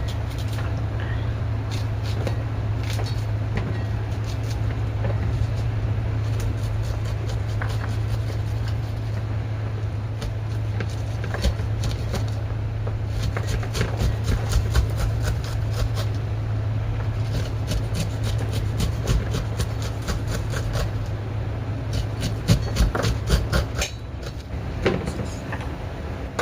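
Kitchen food preparation: scattered knocks and clicks of utensils and handling, with runs of quick knocks around the middle and again near the end, over a steady low hum.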